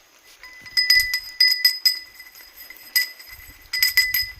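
A small metal bell clinking again and again at an uneven pace: a dozen or so short strikes, each with the same bright ringing pitch, bunched about a second in and again near the end.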